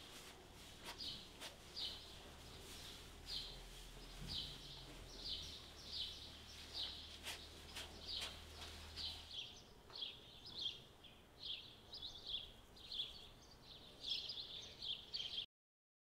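A small bird chirping over and over, each chirp a short falling note, the chirps coming faster in the second half. A few faint knocks in the first half, and the sound cuts off abruptly near the end.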